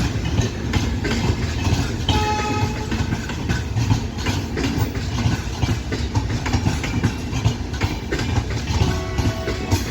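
Coaches of an arriving passenger train rolling past, with a steady rumble and wheels clacking over rail joints. A brief high tone sounds about two seconds in.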